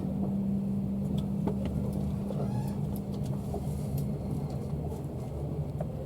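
Low, steady rumble of a KTM sleeper train, with a steady hum that stops about four seconds in and a few faint clicks.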